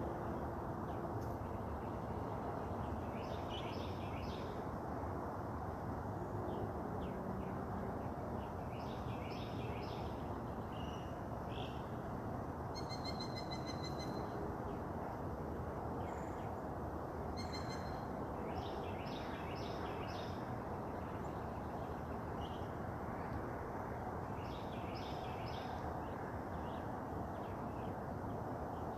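Wild birds singing and calling: short high phrases that come back every few seconds, with one clearer stacked call about halfway through, over a steady low background noise.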